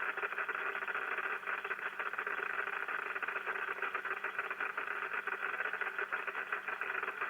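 Dense, steady crackling static (QRN) from an HF receiver fed by a Yagi antenna during rain, heard with no filters and no noise blanker. The crackle comes from many noise sources at once, which is rain static on the antenna.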